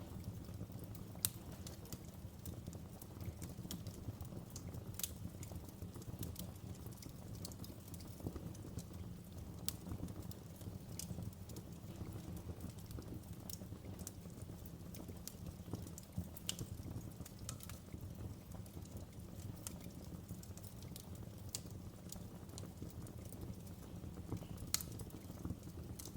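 Wood fire in a fireplace crackling: a steady low rumble of burning with frequent sharp pops and snaps, a couple of louder pops about a second in and near the end.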